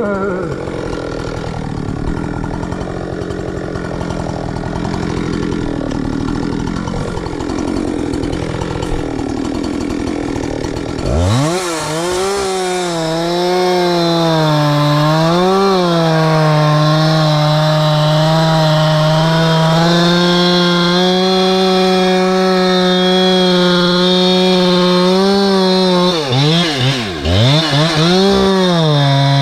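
Two-stroke chainsaw running, quieter for the first ten seconds or so, then revved up sharply to full throttle and held there, its pitch dipping briefly a few times. Near the end it drops and revs back up several times in quick succession.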